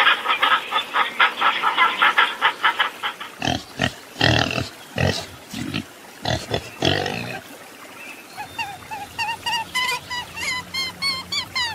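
A fast rattling chatter for the first few seconds, then a domestic pig grunting in a run of separate grunts, then a quick series of short high squeaks near the end.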